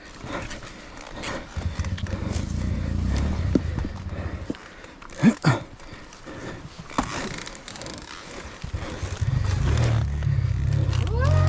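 Dirt bike engine chugging at low revs in two spells of throttle. Between the spells come a few sharp knocks, the loudest about halfway through.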